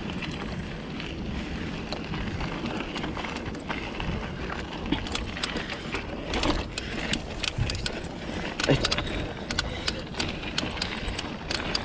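Hardtail mountain bike ridden over a rough trail section: a steady rumble of tyres on dirt with many sharp clicks and rattles from the bike, coming thicker in the second half.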